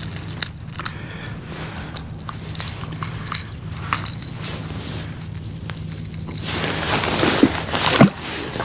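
Small clicks and rattles of fishing tackle being handled in a boat, over a steady low hum. About six and a half seconds in, a louder rush of noise builds and ends about a second and a half later.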